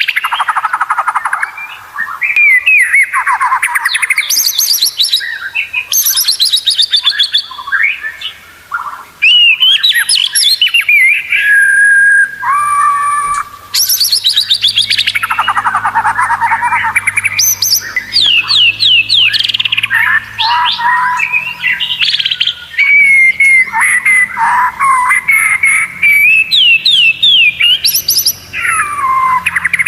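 White-rumped shama singing a fast, varied song of rapidly repeated notes, falling sweeps and held whistles, with only brief pauses.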